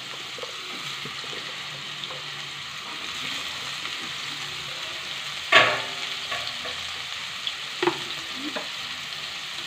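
Cubed potato and brinjal sizzling steadily in hot oil in a non-stick wok. A little past halfway a sharp knock on the pan stands out, followed by a few lighter knocks near the end.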